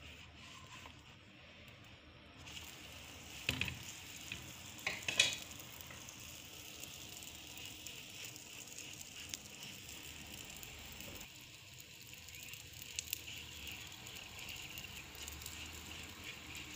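Oil sizzling steadily under a paratha frying in a hot nonstick pan as it is brushed with oil. A few sharp knocks come about three and a half and five seconds in.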